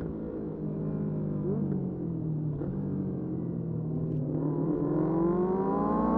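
Motorcycle engine running at fairly steady revs, then accelerating with a rising pitch over the last second and a half.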